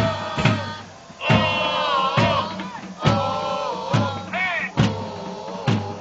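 Football supporters singing a chant together in the stands, backed by a bass drum struck about once a second.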